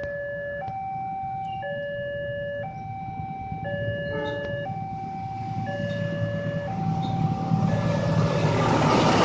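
Railway level-crossing warning alarm sounding two alternating tones, switching about once a second. A train's rumble builds up under it and grows loud over the last few seconds as the train approaches.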